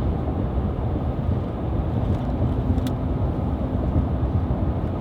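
Truck driving at a steady speed: an even, low rumble of engine and road noise.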